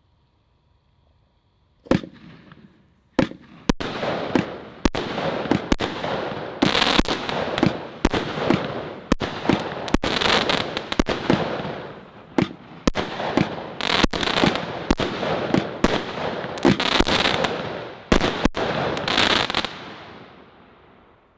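A 16-shot consumer firework cake firing: after about two seconds of quiet, a rapid run of sharp launch pops, each followed by a noisy burst, roughly one or two a second, before the last bursts fade out near the end.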